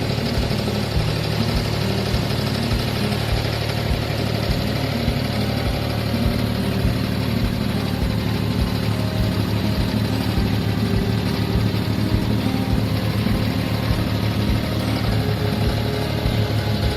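Diesel engine of an abra, a traditional wooden water taxi, running steadily under way: an even, low, throbbing hum.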